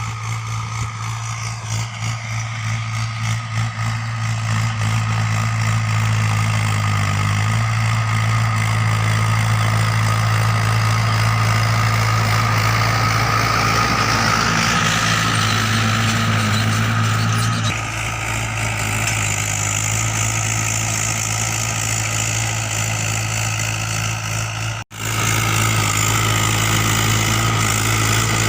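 Mahindra 575 DI tractor's four-cylinder diesel engine running steadily with a constant low drone while pulling a spring cultivator through the soil. The sound cuts out for an instant near the end.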